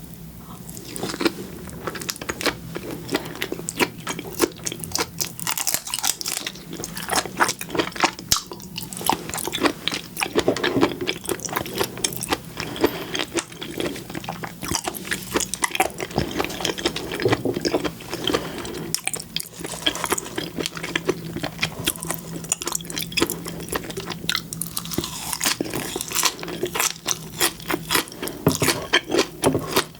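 Close-miked chewing and biting of seafood, with dense, irregular crackling clicks and wet mouth sounds.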